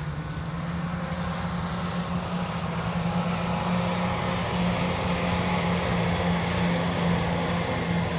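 Passenger multiple-unit train passing close by, a steady low engine drone over wheel and track rumble, growing louder over the first few seconds as it nears and then holding steady.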